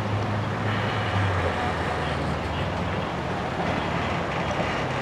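Heavy vehicle's engine running with a low, steady hum over traffic noise; the hum eases off about a second and a half in.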